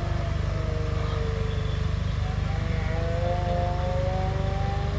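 Cars' engines running at idle, a steady low rumble, with a higher engine note over it that sinks slightly and then climbs slowly from about halfway through.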